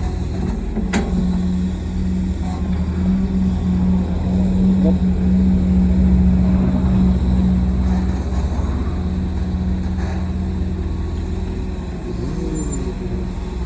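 Heavy diesel engine of earthmoving machinery running under load, swelling in the middle and easing off after about eight seconds. There is a sharp click about a second in.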